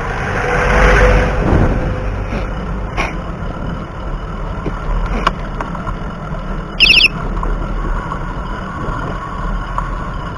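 Wind rumbling on an action camera's microphone as a bicycle rolls downhill, with a louder whoosh in the first two seconds. A brief high warbling squeal comes about seven seconds in.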